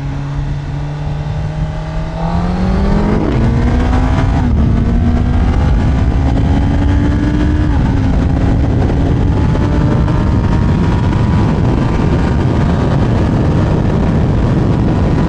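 Kawasaki ZX-10R sport bike's inline-four engine accelerating hard. The pitch climbs from about two seconds in, with a short dip for a gear change near four and a half seconds and another near eight seconds. After that it keeps rising slowly while wind rush grows louder with speed.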